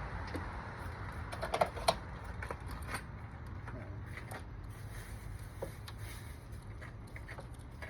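Small metallic clicks and clinks of T30 Torx screws being handled and set into the tops of ignition coil packs, with two sharper clinks about one and a half and two seconds in.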